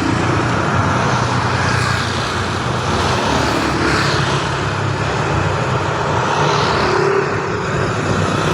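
Road traffic: vehicle engines running with a steady hum and a continuous hiss of road noise.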